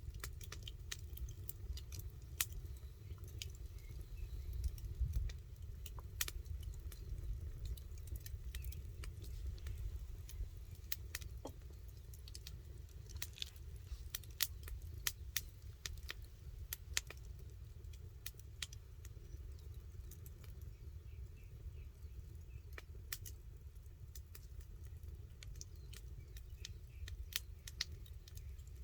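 Campfire crackling: burning wood giving irregular sharp pops and snaps over a steady low rumble.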